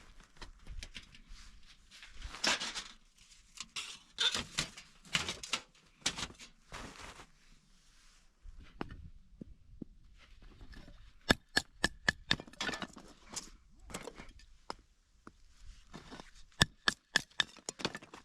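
Camping gear being handled: rustling and scraping for the first few seconds, then two runs of sharp clinks, some with a short metallic ring, about eleven seconds in and again near the end.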